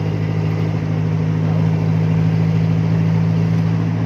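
Pickup truck engine running with a steady low drone.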